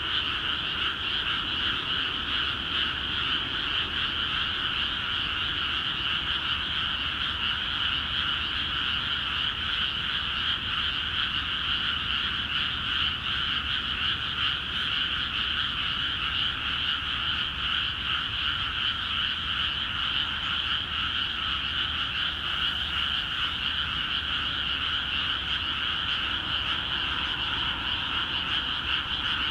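Dense chorus of many frogs calling at once in newly flooded rice paddies, a steady, unbroken mass of overlapping croaks: a spring breeding chorus.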